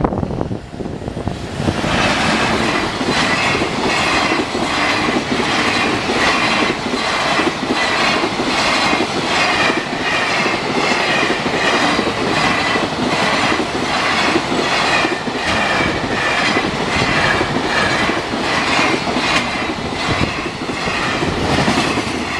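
A long train passing close by at a level crossing, its wheels clacking over the rail joints in a steady rhythm. It builds up about a second and a half in and runs on for some twenty seconds, fading near the end.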